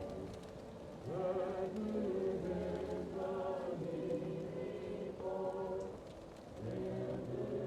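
Muffled choir singing held, slow notes, as if heard from another room, with short breaks between phrases about half a second in and again about six seconds in. Faint fireplace crackle ticks underneath.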